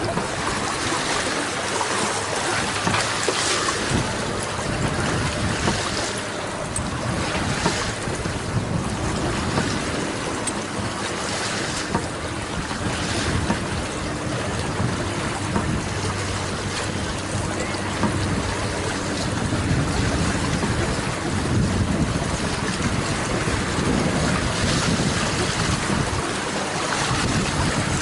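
Wind buffeting the microphone and water rushing past the hull of a sailboat under way in gusty wind, a steady loud noise.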